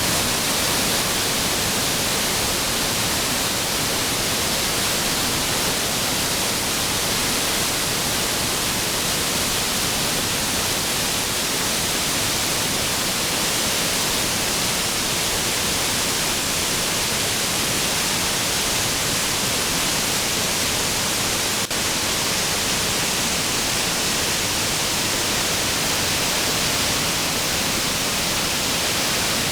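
Waterfall pouring steadily: an even, bright rush of falling water that never changes, with one faint tick about three-quarters of the way in.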